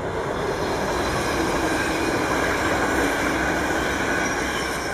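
NS VIRM double-deck electric train passing close by, with a steady rumble and rush of wheels on rail and a steady hum above it. It swells a little toward the middle and fades near the end.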